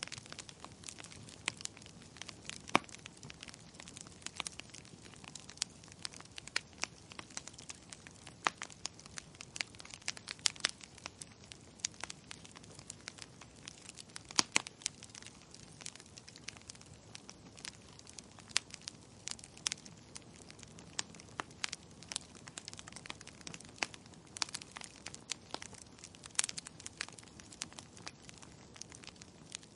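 Burning firewood crackling: irregular sharp pops and snaps, several a second and a few much louder, over a soft low hiss of the flames.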